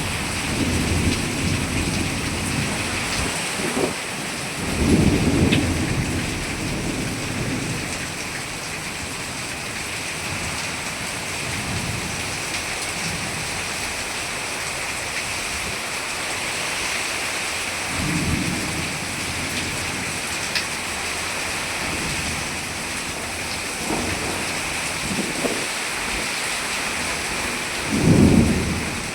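Heavy rain pouring steadily, with several low rolls of thunder, the loudest near the end.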